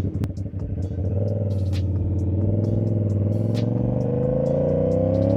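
CFMoto 450SS motorcycle engine with an aftermarket exhaust, running unevenly at low revs and then pulling away, its revs rising slowly and steadily under throttle.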